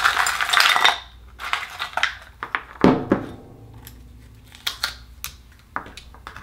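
Akoya pearl oyster being pried open by hand: a loud crunching rustle at the start, then scattered clicks and scrapes of the shell, with a sharper knock about three seconds in.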